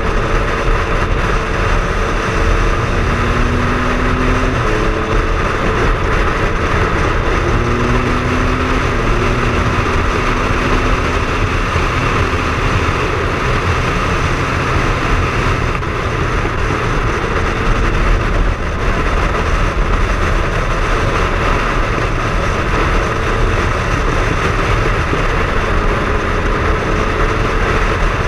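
Triumph Speed Triple's three-cylinder engine running under way on a ride, over a constant loud rush of wind and road noise. The engine note climbs and drops in steps several times in the first half, as with gear changes, then carries on steady.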